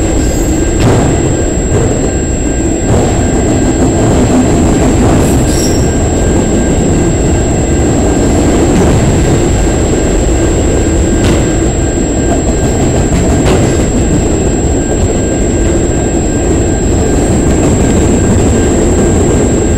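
Freight train of autorack cars rolling steadily past at close range: a loud, continuous wheel-on-rail rumble, with a few sharp clacks.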